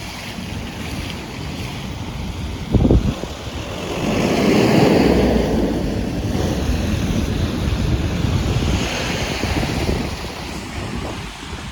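Waves on a choppy lake washing against the shore, with wind buffeting the microphone. A short low gust hits the microphone about three seconds in, and a wave surges loudest around five seconds in.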